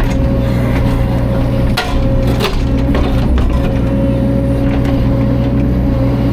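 Mini excavator's diesel engine running steadily under load, with scattered sharp knocks and cracks of wood as heavy logs are handled.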